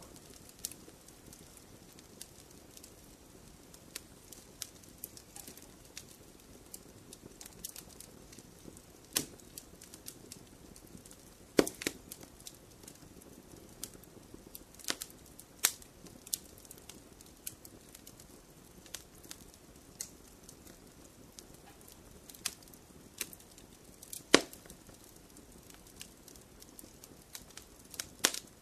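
Logs burning in a fireplace, crackling with irregular small snaps and pops over a steady low rumble of the flames. Two sharper, louder pops come, one a little before halfway and one near the end.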